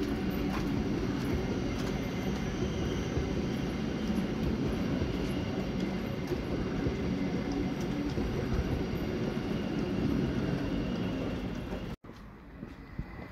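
Class 717 electric multiple unit running past on the tracks below: a steady low rumble of wheels on rails. It cuts off abruptly about a second before the end, leaving faint wind noise.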